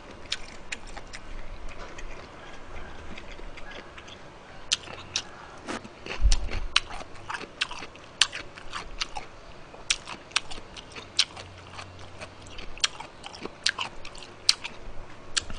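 Close-miked chewing and wet mouth smacks of a man eating jjamppong noodles: many short, sharp clicks scattered throughout, with one low thump about six seconds in.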